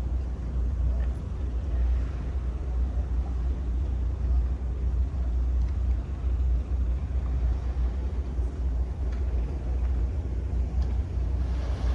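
Steady low rumble that wavers in strength, with little above it.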